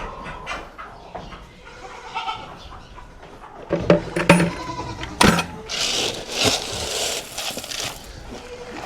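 Goats bleating, with a few sharp knocks about four to five seconds in.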